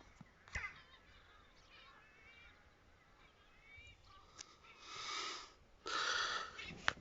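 Gulls calling from a flock in a field: faint, scattered calls that rise and fall. In the second half come two louder hissing bursts, then a sharp click near the end.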